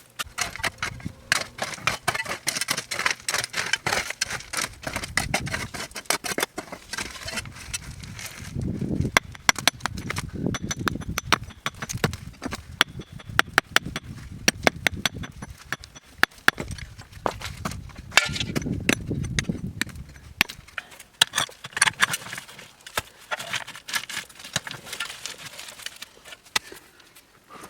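Manual building work: a dense run of sharp knocks, cracks and scrapes of material being handled, with a heavier low rumbling scrape twice, about 9 and 19 seconds in.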